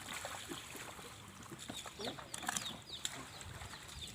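Birds chirping in short, high, falling notes, repeated many times, over scattered short clicks and knocks.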